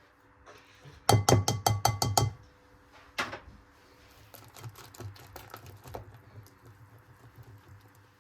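A rapid run of about nine sharp, ringing clinks of a kitchen utensil against a dish or bowl, lasting just over a second, followed by lighter scattered clicks and taps of kitchenware.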